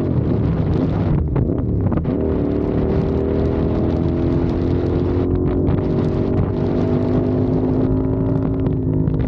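CFMOTO 450SR's parallel-twin engine running under way. Its note wavers over the first two seconds, then holds a steady pitch, with wind buffeting the microphone.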